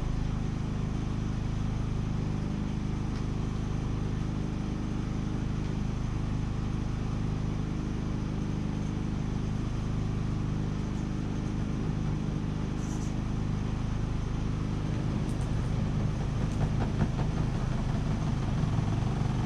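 An engine running steadily with an even low hum made of several steady tones, the level unchanging throughout.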